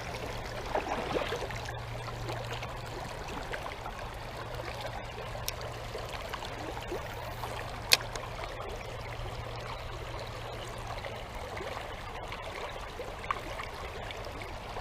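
Small creek running steadily, water trickling and babbling, with one sharp click about eight seconds in.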